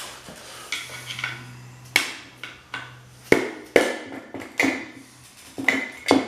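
Electric motor housing parts knocking and clanking against each other and the bench as they are handled, about six sharp metallic knocks with short ringing. A steady low hum runs underneath and stops about a third of the way in.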